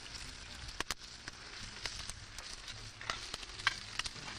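Fish fillets frying in a cast-iron skillet: a steady sizzle with frequent small pops and crackles.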